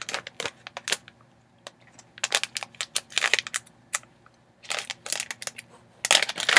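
Crinkling of a candy packet as it is handled and opened, in irregular bunches of sharp crackles.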